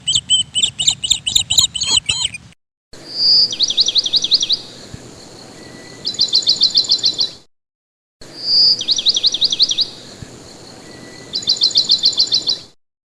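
Recorded birdsong sound effect with hard cuts to silence. First comes about two seconds of rapid high chirping. Then the same clip plays twice: a short high whistle, a quick trill of falling chirps, a pause with faint outdoor hiss, and a second, faster trill.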